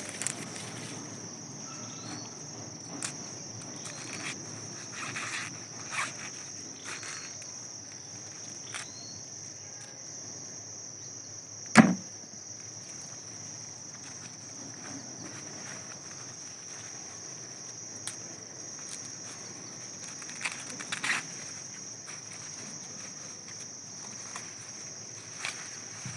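Ripe maize ears being snapped off their stalks by hand, with scattered dry cracks and rustles of husks and leaves and one much louder sharp snap about halfway through. A steady high insect drone runs underneath.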